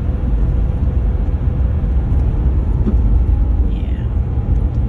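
2014 Ram 1500 EcoDiesel's 3.0-litre V6 turbodiesel and tyres running steadily at highway speed, a constant low rumble. The truck is being held at highway speed to force a regeneration of its clogged diesel particulate filter.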